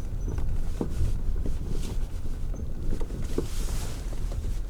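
Truck driving slowly on a rough back road: a steady low rumble of engine and tyres with scattered knocks and rattles, and a brief hiss of wind about three seconds in.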